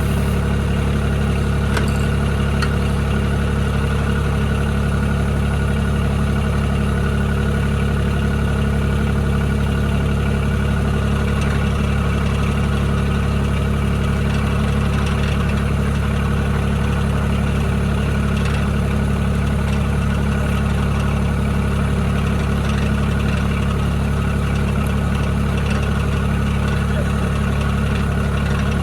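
Mahindra eMax 20 HST compact tractor's small diesel engine idling steadily.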